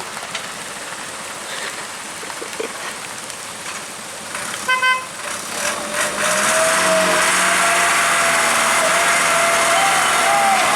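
A short single horn toot about halfway through, then a heavy vehicle's engine starts running loudly with a wavering whine over it. Before the toot only a steady hiss of rain.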